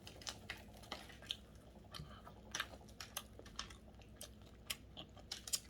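A person chewing crusty salt bread: quiet, irregular crunching clicks from the mouth.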